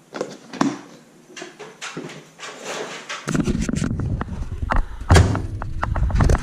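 Clicks and knocks of a door being handled, opened and shut. From about three seconds in, a steady low rumble with further thumps.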